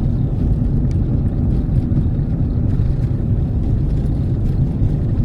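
Steady low rumble of a moving vehicle, its road and engine noise, mixed with wind on the microphone.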